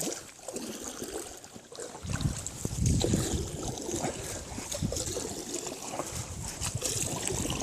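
Water splashing and trickling around a small raft, with wind buffeting the microphone from about two seconds in.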